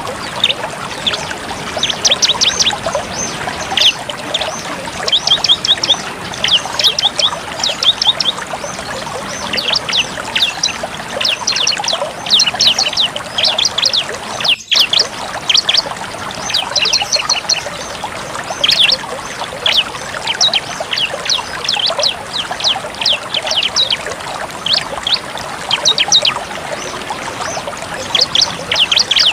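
Bar-winged prinia (ciblek) singing its rapid 'tembak' song: bursts of fast, sharp, high-pitched repeated notes, one run after another, over a steady hiss. There is a brief break about halfway through.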